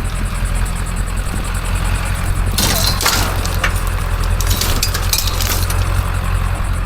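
Steady low vehicle engine rumble, with two bursts of clinking and clattering: one about two and a half seconds in and a longer one from about four and a half to five and a half seconds.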